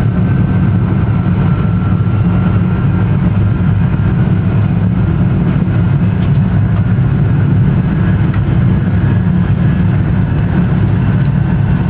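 Joetsu Shinkansen bullet train running at speed: a steady, loud, low rumble without breaks.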